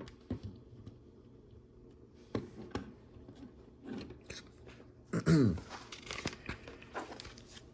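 LEGO bricks being handled and pressed together, with scattered light clicks and rustling. About five seconds in there is a short vocal sound that falls in pitch.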